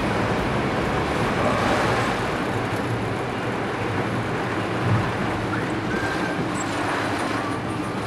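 Car driving through typhoon rain and wind, heard from inside the cabin: a steady, dense rush of rain and wind on the car and tyres on the wet road over a low engine hum.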